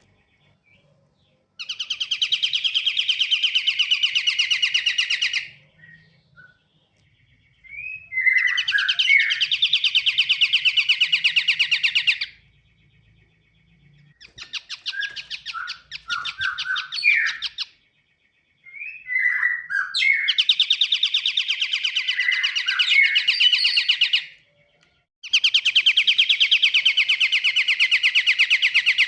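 Pied triller (kapasan kemiri) singing: rapid, dry trills lasting three to four seconds each, repeated with short pauses, with brief sliding chirps between some of them.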